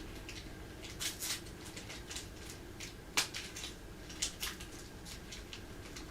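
A cat moving about, making a run of irregular light clicks and scratches, the sharpest about three seconds in, over a faint steady hum.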